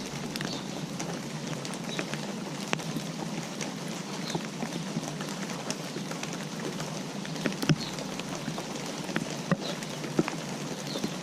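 Steady autumn rain hissing, with single drops ticking and dripping onto a surface and a few louder drips in the second half.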